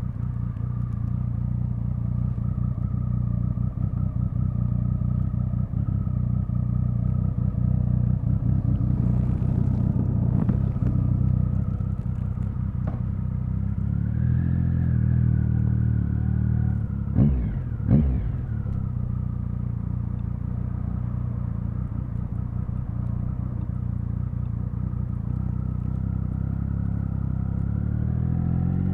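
Triumph Speed Triple 1050's inline three-cylinder engine and exhaust running at low revs under way, its pitch rising and falling a little with the throttle. About two-thirds of the way in come two short loud bursts in quick succession.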